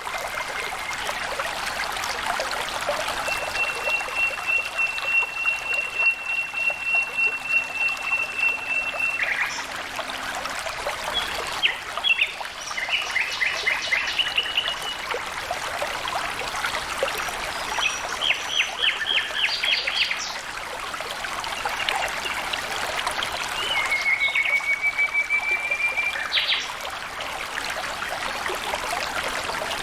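Water trickling and flowing steadily, with birds calling over it: a long held whistle, then bursts of rapid trills, and later a slightly rising whistle.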